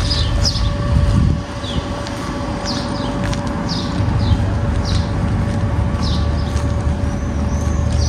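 A bird chirping over and over, short high falling notes about once a second, over a steady machine hum and a low rumble that eases about a second and a half in.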